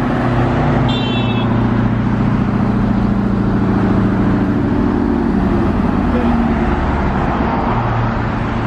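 Car engine and exhaust running at low revs: a loud, deep, steady drone whose pitch shifts a little about five seconds in. There is a brief high squeak about a second in.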